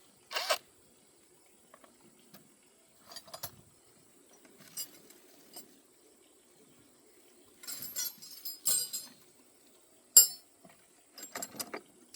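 Irregular metal clinks and scrapes of tools and engine parts being handled while the tractor engine is taken apart, in about half a dozen short bursts; the loudest is a sharp clink about ten seconds in.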